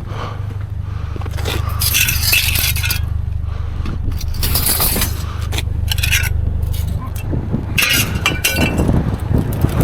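Pieces of scrap metal being handled: irregular scrapes and clanks, several over a few seconds, over a steady low hum.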